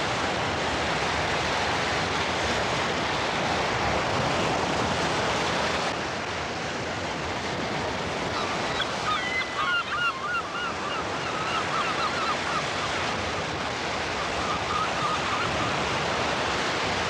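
North Sea surf breaking on the shore, a steady rush of waves. From about eight seconds in, a bird calls over the surf for several seconds in a series of wavering, chattering notes.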